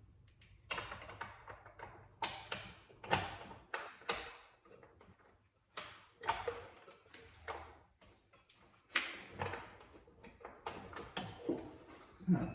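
Irregular clicks, taps and scrapes of hand tools and parts being handled during car repair work, with about a dozen sharp knocks spread unevenly through.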